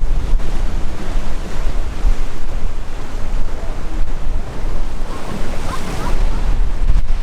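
Waves crashing and washing, with strong wind buffeting the microphone as a heavy low rumble.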